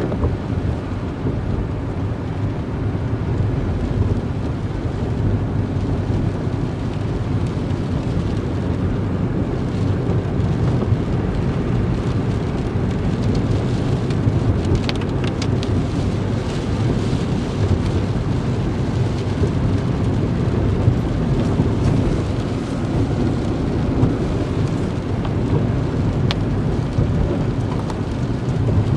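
Steady low rumble of a vehicle driving, heard from inside: engine and tyre noise on the road, with a few sharp ticks about halfway through and near the end.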